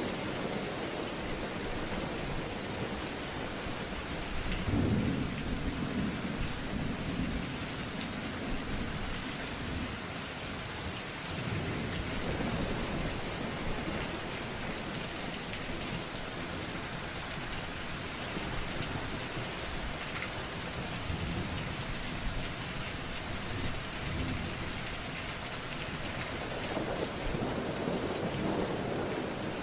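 Steady heavy rain with low rolls of thunder, the strongest about five seconds in and others near twelve seconds and near the end.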